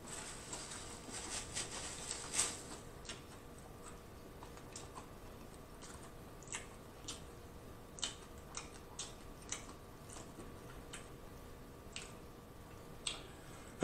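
Close-miked chewing with the mouth closed: soft wet mouth clicks, closely packed for the first couple of seconds, then thinning to scattered single clicks every half second or so.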